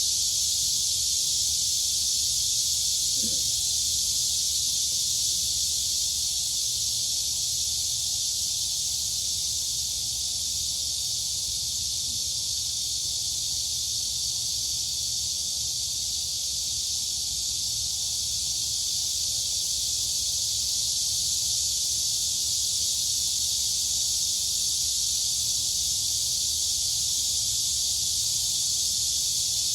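Dense, steady chorus of crickets and cicadas: an unbroken high-pitched shrilling, with a faint low rumble underneath.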